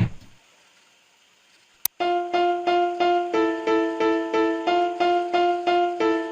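A programmed electric-piano-like keyboard pattern playing back from a beat-making program: short repeated notes about three a second, moving between a few pitches, starting about two seconds in. A dull thump at the very start and a sharp click just before the pattern begins.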